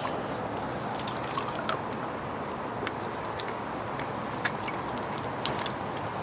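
Water running from a garden hose, a steady hiss with a few small scattered ticks and drips.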